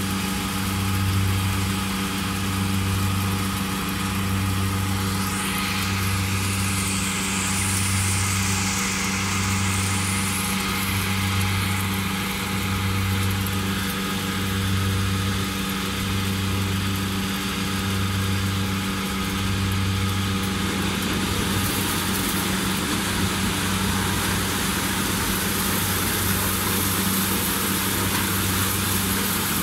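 Engine of a corn-harvesting machine running steadily, with a low throb that swells about every one and a half seconds; about two-thirds of the way through the throbbing stops and the sound turns rougher and noisier.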